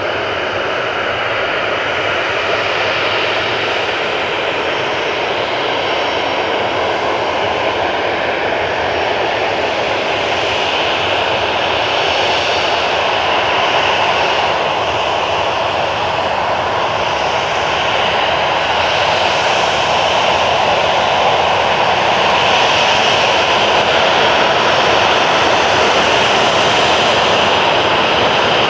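Steady, continuous engine roar that grows gradually louder.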